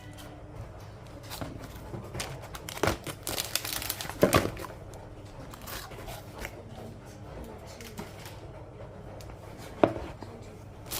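Crinkling and rustling handling noise with scattered sharp knocks and clicks, the loudest knocks about three and four seconds in and one near the end.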